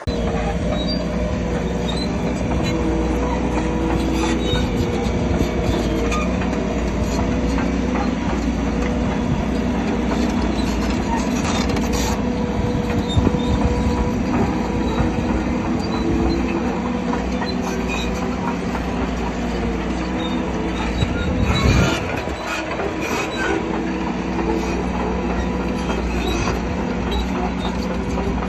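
Crawler bulldozer working: its diesel engine running steadily while the steel tracks squeal and clank.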